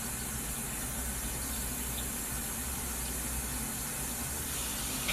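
Running water giving a steady rushing hiss, starting just before and stopping just after.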